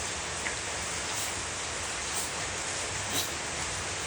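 Heavy rain falling steadily, with a few faint ticks of drops hitting something about once a second.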